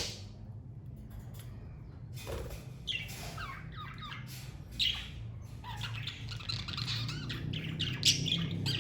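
Pet budgerigars chirping and squawking, sparse at first and then a busy run of overlapping chirps over the last few seconds.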